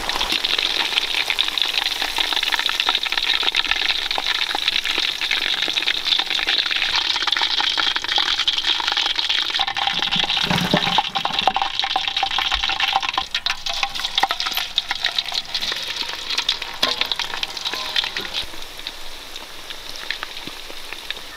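Marinated chicken pakoda deep-frying in hot groundnut oil: a dense, crackling sizzle that eases off over the last few seconds.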